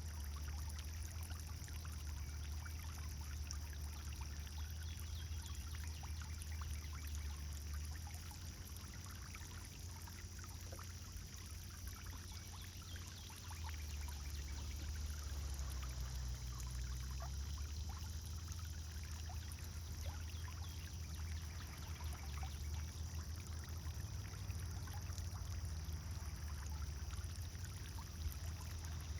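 Pond fountain running: water pouring and splashing steadily into the pond, over a steady low rumble.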